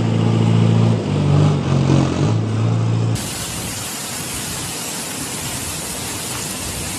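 A vehicle's engine hum, steady low tones that shift in pitch a few times. About three seconds in it cuts abruptly to the even, steady hiss of a heavy downpour.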